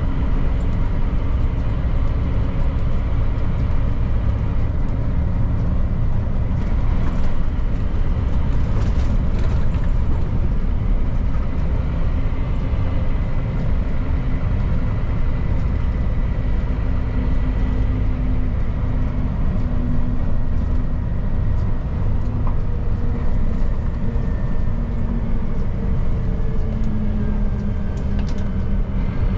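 Scania P310 truck driving at steady speed: the engine runs with a continuous low rumble mixed with road and tyre noise, its note shifting slightly now and then.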